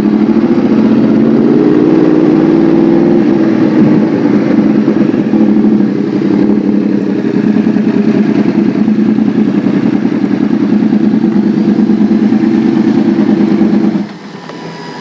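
Yamaha R1 sport bike's inline-four engine running steadily under throttle while riding, its note rising slightly in the first few seconds. About a second before the end the throttle closes and the engine sound drops away sharply.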